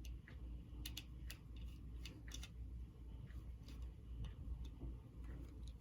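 Faint, irregular small clicks and ticks of a hand screwdriver turning and seating small screws.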